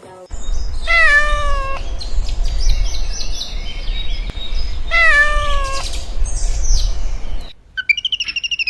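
A cat meowing twice, about four seconds apart, each meow a drawn-out call that falls in pitch. Under it are a steady low rumble and scattered high chirps, and near the end a different sound of quick, high repeated notes begins.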